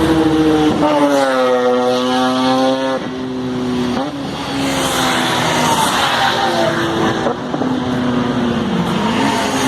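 Motorcycle engine running at highway speed, its pitch sagging and stepping down and up a few times as the throttle changes, under steady wind rush on the microphone.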